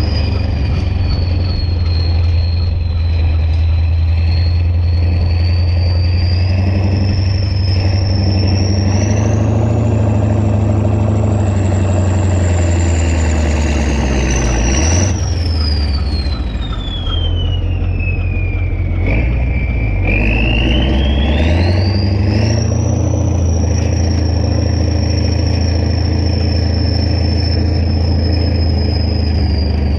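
Kirovets K-700A tractor's diesel engine running with a loud, steady low drone and a high whistle over it. The whistle and the drone rise and fall together: the revs go up, drop away about two-thirds of the way through, then pick up again.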